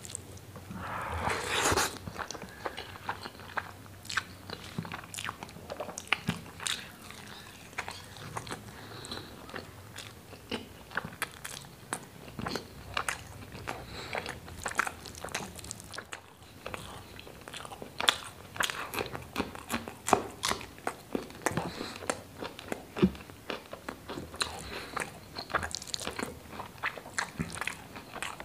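Close-miked eating sounds: wet chewing and lip smacks of a mouthful of rice and chickpea curry eaten by hand, as a rapid run of small clicks. A louder, longer rustle comes about a second in.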